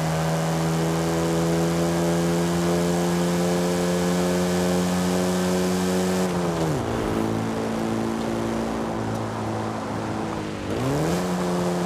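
Morris Minor Series II Traveller's four-cylinder engine running at a steady speed. About six seconds in the revs fall quickly to a lower, steady note. Near the end they climb back up.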